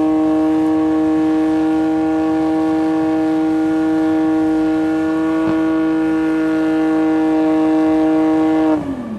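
Lexus's engine held at steady high revs during a burnout, one unchanging note, that falls away sharply in pitch near the end as the revs drop.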